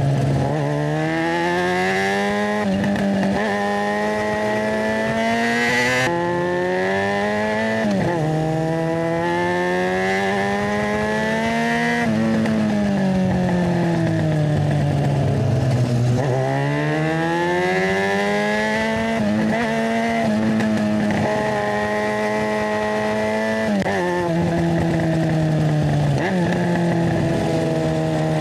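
Yamaha FZ6's inline-four engine through a GPR Ghost aftermarket exhaust while riding: the revs climb through the gears with sudden drops at the shifts, about 8 seconds in and again near the end. In the middle the engine falls away on a slow deceleration, then picks up again.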